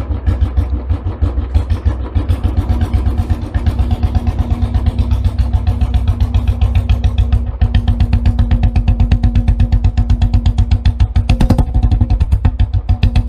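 Engine running steadily with a rapid, even chugging beat, about ten pulses a second.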